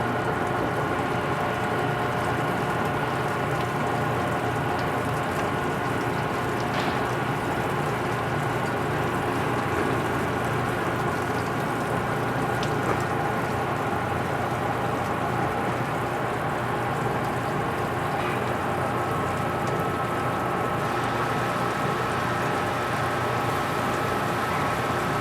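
Lathe running steadily while turning a large pot-bearing part: a continuous hum with several steady tones over an even hiss, with a few faint ticks.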